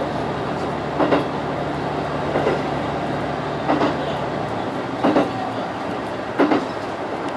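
Diesel railcar running along jointed track, heard inside the driver's cab: a steady rumble with a sharp clickety-clack of wheels over a rail joint about every second and a half. A low engine hum under it falls away about halfway through.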